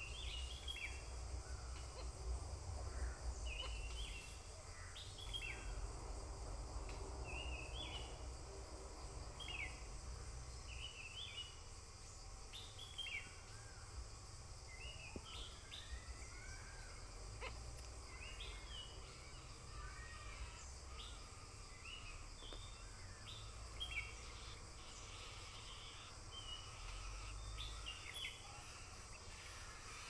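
Birds chirping: short high chirps repeated every second or so, over a faint low rumble.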